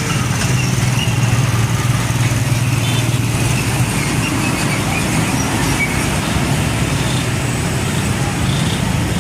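Heavy diesel trucks passing on a busy road: a steady low engine rumble over continuous traffic noise, loudest in the first few seconds.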